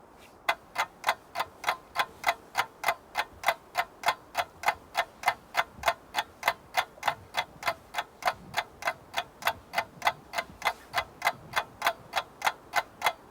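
Ticking clock sound effect marking a 15-second countdown: short, even ticks, about three a second, starting about half a second in.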